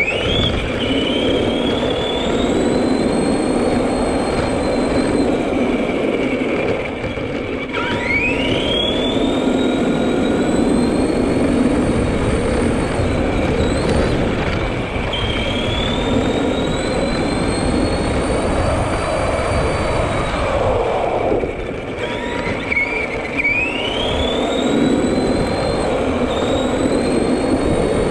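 Electric motor of a radio-controlled Granite 4x4 monster truck whining as it accelerates, four times. Each time the whine rises in pitch and then holds, over a steady rumble of the truck running.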